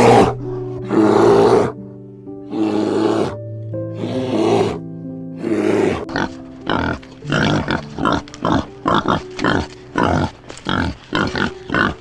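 An animal grunting over soft piano music: about five long, rough grunts in the first half, then a quick run of short grunts.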